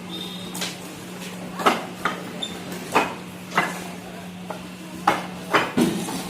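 Fired bricks knocking and clinking against one another as they are unloaded: irregular sharp knocks, about eight in six seconds, over a steady low hum.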